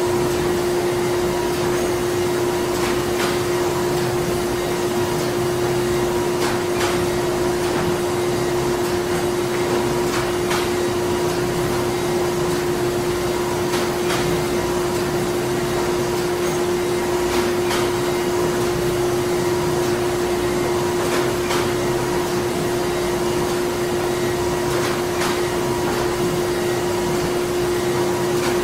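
Printing-plant machinery running steadily: a constant mid-pitched hum over an even mechanical hiss, with sharp clicks that recur about every three and a half seconds.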